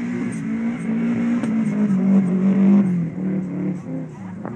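Car engine revving hard as the car power-slides across grass, its pitch swinging up and down with the throttle. It is loudest a little past halfway, then drops off.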